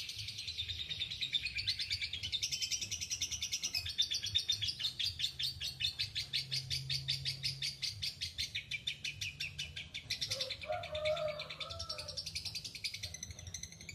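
Lovebird 'ngekek': a long, unbroken run of rapid, high chattering chirps repeated many times a second without pause. A brief lower-pitched sound cuts in about ten seconds in, over a faint steady low hum.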